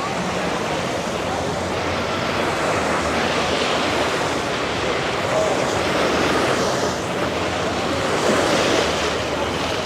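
Ocean surf washing onto a beach, a steady rush of breaking waves that swells several times.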